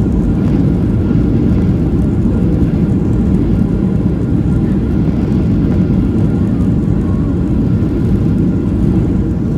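Passenger airliner cabin noise: a steady, low rumble of the jet engines and airflow heard from inside the cabin at a window seat.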